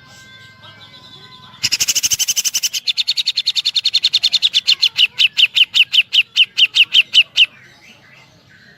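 Cucak jenggot (brown-cheeked bulbul) singing. A few faint held whistles lead into a loud, rapid rattle of sharp repeated notes, very fast at first and then about six a second, in the woodpecker-like 'tembakan' style. The rattle stops shortly before the end.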